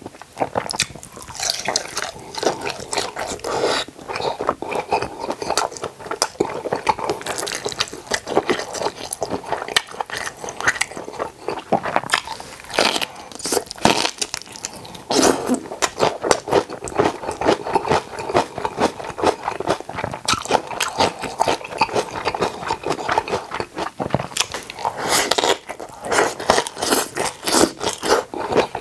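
Close-miked eating sounds: wet chewing and crisp crunching in quick, irregular bites, as of napa cabbage kimjang kimchi eaten with boiled pork (bossam).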